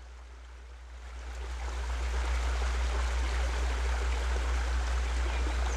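Steady rushing noise with a strong low rumble, swelling over the first two seconds and then holding even.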